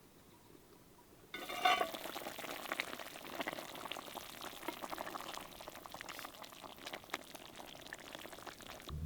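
Food sizzling and crackling in a hot pan. It starts suddenly about a second in, loudest at the start, and cuts off near the end.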